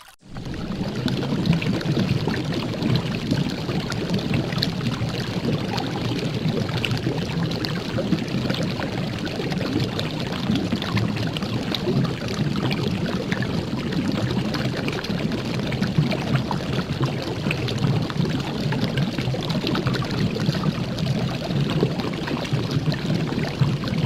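A large volume of water boiling: steady, dense bubbling.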